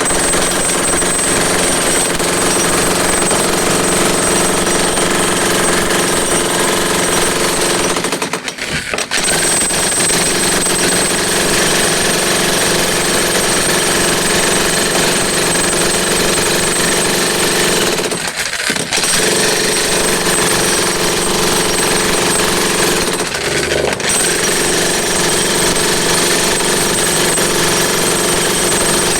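Power hammer running continuously, chipping at masonry, with three short pauses about 8, 18 and 23 seconds in.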